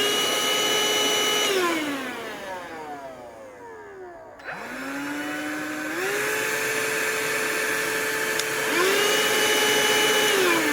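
Battery-powered cordless vacuum cleaners running in turn. One whines up to speed, runs briefly and winds down. A few seconds in, another starts at a lower speed and steps up to a higher speed, and near the end a second motor whine starts over it.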